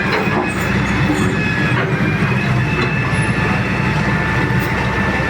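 Heavy excavator's diesel engine running steadily under load, with a thin steady high whine over the low engine hum.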